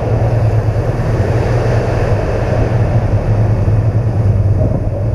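BMW R1200 GS Adventure's boxer-twin engine running steadily with a constant rushing noise over it.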